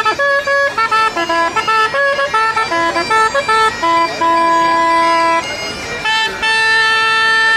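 A loud wind instrument playing a quick tune of short, separate notes, holding one note about four seconds in, then a long steady note near the end.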